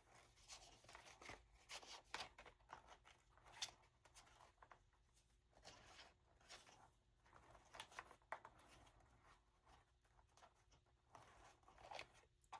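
Faint, scattered rustles and light ticks of paper pieces being handled and sorted, near silence in between.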